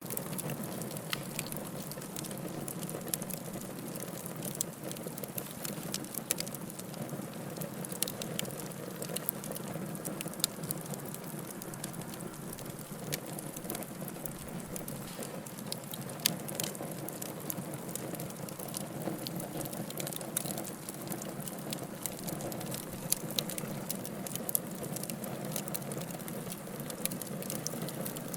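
Wood fire burning in a fireplace: a steady low rush of flames with frequent irregular crackles and pops.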